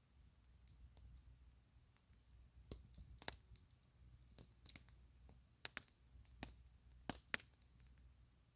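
Quiet campfire crackling: scattered sharp pops, a handful of louder ones in the second half, over a faint low rumble.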